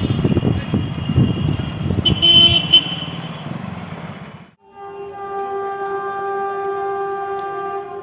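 An electric multiple-unit train runs past with a rumble and wheel clatter. After an abrupt cut, a train horn sounds one long steady note for about three seconds.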